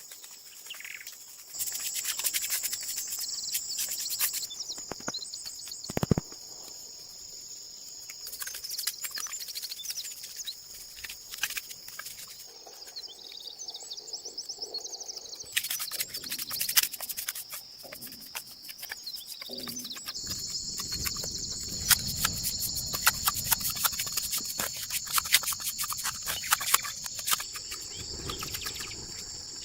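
Steady high insect chirring outdoors, with many scattered clicks and knocks over it and a denser rumble of noise from about two-thirds of the way in.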